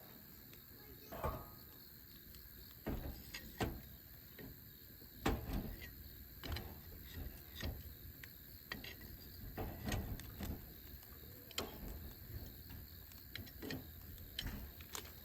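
Irregular light knocks and clicks, about a dozen spread unevenly, like small objects being handled and set down.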